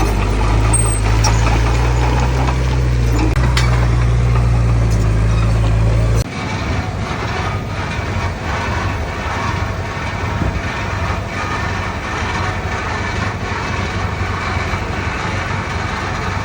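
Diesel engine of heavy earthmoving machinery running, a bulldozer or dump truck, with a deep steady hum that breaks off abruptly about six seconds in, leaving a rougher, clattering engine sound.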